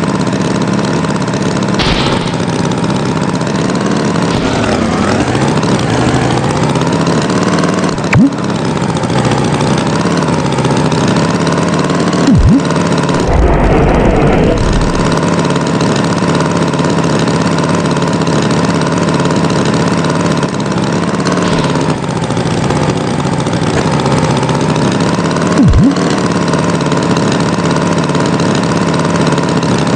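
Tractor engine running steadily, its pitch dipping and rising now and then, with three sharp knocks and a short rumble about halfway through.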